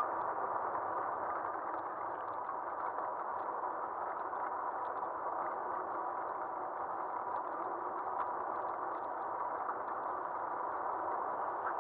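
Steady riding noise of an Aostirmotor S17 electric bike heard from a camera mounted on the bike's front end: wind and tyre rush on pavement, a faint steady whine, and light rattles and ticks from the bike.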